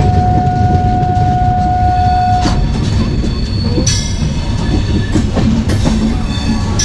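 Indian Railways express train running, heard from an open coach door: a steady rumble with scattered rail clacks. A long single-note horn sounds for the first two and a half seconds, and high-pitched wheel squeal sets in about four seconds in.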